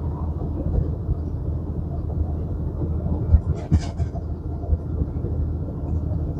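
Semi-truck's diesel engine running steadily under load on a long uphill grade, heard inside the cab, with a brief sharp knock or rattle about three and a half seconds in.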